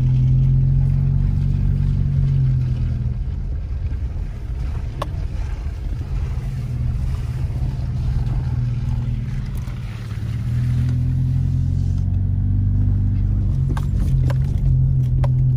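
Subaru's flat-four engine humming at low speed, heard from inside the cabin while the car climbs a rough dirt and slush track. The engine note eases off a few seconds in and picks up again about two-thirds of the way through. There are a few sharp knocks about five seconds in and near the end.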